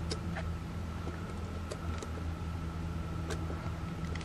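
A few scattered computer keyboard clicks, a handful over several seconds, over a steady low electrical hum.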